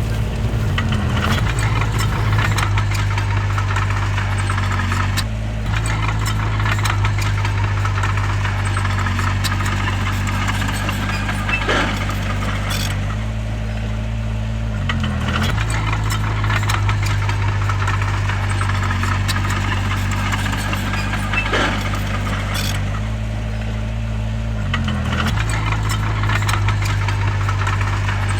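Bulldozer's diesel engine running steadily under load. Its note dips and recovers about three times as the machine works, with occasional sharp metallic clanks.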